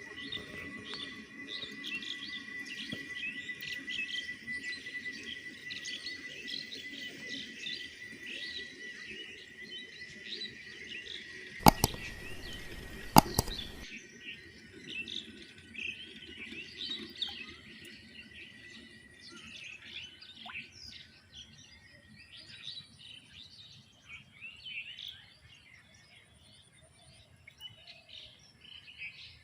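Many small birds chirping in a dense chorus, over a steady high-pitched tone that fades out about two-thirds of the way through. Two sharp clicks, about a second and a half apart, stand out as the loudest sounds near the middle.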